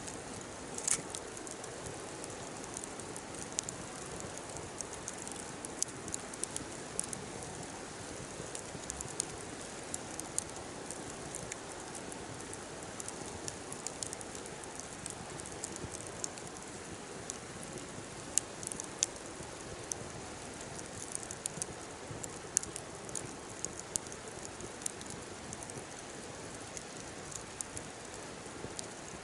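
Wood fire burning with a steady hiss and irregular sharp crackles and pops, one louder pop about a second in.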